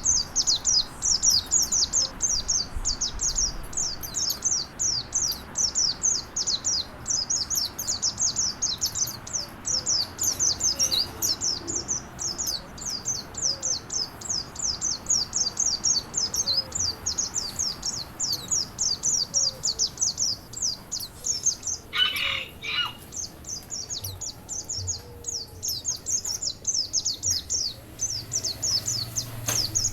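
Songbird masteran recording: a small bird sings a rapid, continuous run of short, high, downward-sliding notes, several a second, over a faint even rush of flowing water. A single brief, lower call cuts in about 22 seconds in.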